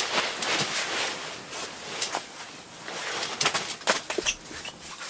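Irregular rustling with scattered light knocks and clicks, a person moving about and handling clothing and gear, with a few brief high squeaks near the end.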